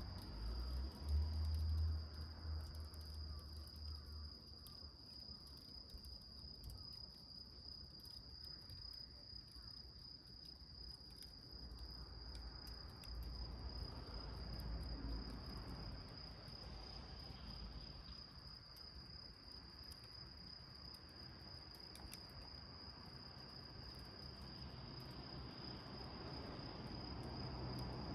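Crickets trilling steadily in one unbroken high note, with faint scattered crackles from a small wood fire. There is a brief low rumble about a second in.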